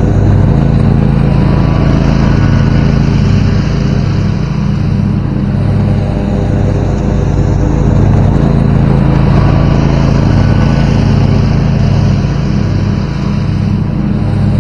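Zero-turn riding lawnmower's engine running steadily under load while mowing, with a close, even drone.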